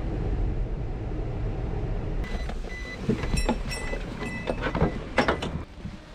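Low, steady rumble of a car running. From about two seconds in it is joined by a run of short, high beeping tones and several sharp clicks, and it all drops away just before the end.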